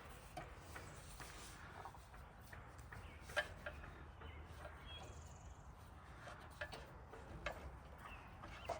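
Faint scattered clicks and light knocks over low background noise, the loudest about three and a half seconds in.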